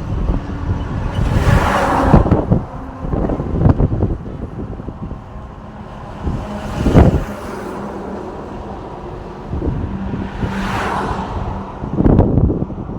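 Road traffic: cars and trucks passing one after another, each swelling and fading, about four passes in all, the last near the end. A low steady rumble runs underneath.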